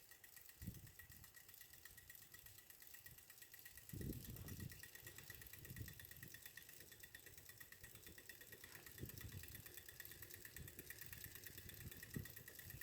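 Hampton Bay Huntington III ceiling fan running faintly at medium speed, with a low, uneven pulsing and a faint steady high tone; the fan has a bad capacitor.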